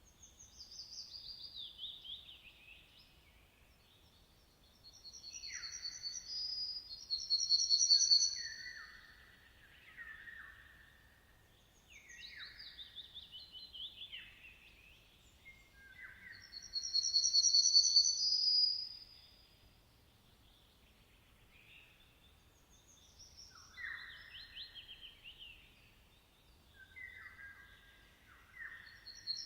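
Songbirds singing in turn: short phrases of quick chirps that sweep down in pitch, and a louder, high, fast trill that comes back about every ten seconds, with brief quiet gaps between phrases.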